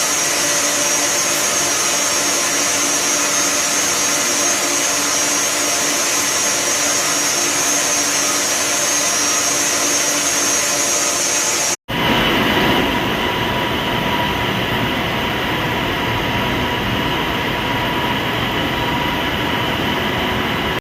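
Train running steadily, a continuous rumble and rush of noise with a high whine above it. About twelve seconds in the sound cuts off for an instant and resumes with a deeper rumble and lower whining tones.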